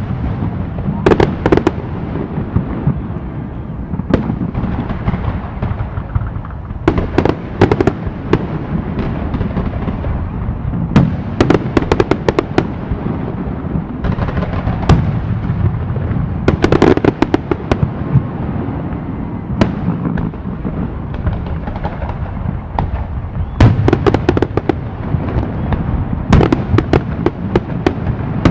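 Fireworks display: clusters of sharp bangs and crackles from bursting shells, coming every two to five seconds over a continuous low rumble.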